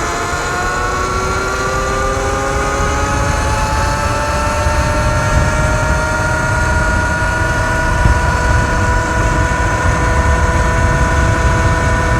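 Sur-Ron Light Bee X electric dirt bike accelerating hard at full throttle: its electric motor and drivetrain whine climbs slowly in pitch and levels off near the end as it nears about 50. Heavy wind buffeting on the helmet-mounted microphone runs underneath.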